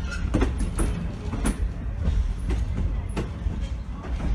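A steam-hauled train on the Strasburg Rail Road running, with a steady low rumble and irregular clicking and knocking of its wheels over the rail joints.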